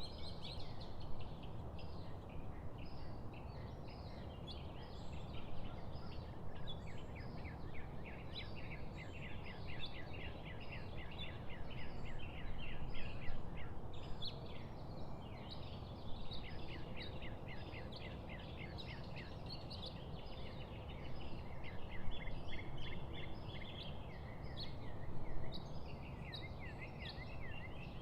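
A flock of birds chirping and chattering nonstop, many quick, short calls overlapping, over a steady low background rush.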